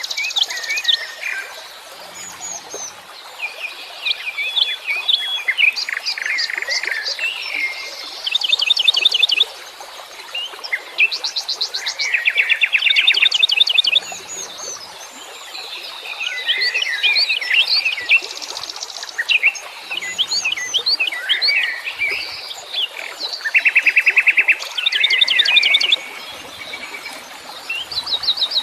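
A chorus of wild songbirds chirping and singing over one another, broken every few seconds by fast trills of rapidly repeated notes. Faint low-pitched calls sound underneath a few times.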